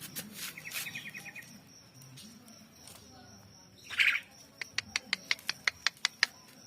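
Javan myna calling: a quick rattling trill about half a second in, a loud harsh call about four seconds in, then a run of sharp clicks at about six a second.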